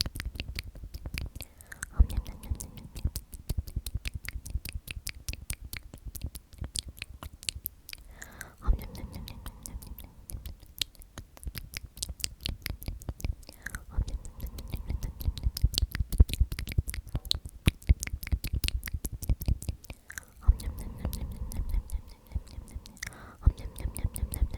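Close-miked whispering of the word "omnomnom" over and over, with many quick, wet mouth clicks and lip smacks running through it.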